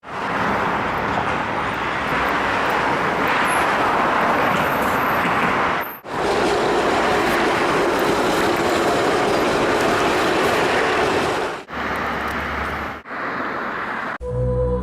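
Steady rushing noise in four sections, each cut off abruptly and replaced by the next. Music with steady tones and a bass line comes in near the end.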